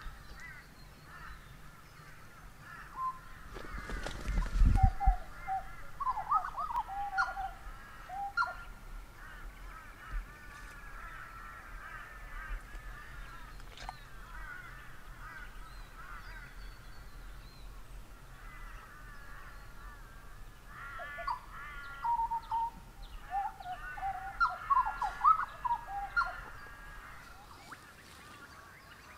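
A chorus of wild birds calling, with wavering, warbling calls throughout and two louder bouts of calling, one a few seconds in and one near the end. A loud low rumble sounds briefly about four to five seconds in.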